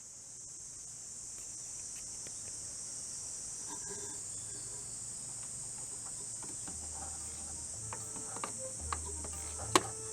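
Steady high-pitched insect chirring. A few faint clicks are heard, with a sharper knock about nine and a half seconds in.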